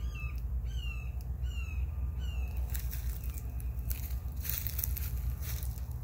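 A bird gives a short falling chirp four times in quick succession, about one every 0.7 s, over a steady low rumble of wind on the microphone. From about halfway through, a run of rustling, crackling noise takes over.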